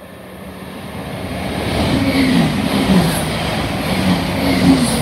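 A Chiltern Railways diesel multiple unit pulls into the platform and passes close by, getting steadily louder. Wheels rumble on the rails, the engines hum low, and brief high squeals come about two seconds in and again near the end.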